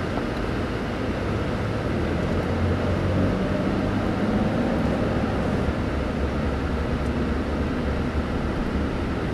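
Steady road noise and engine hum of a car cruising, heard from inside the cabin, swelling slightly a few seconds in.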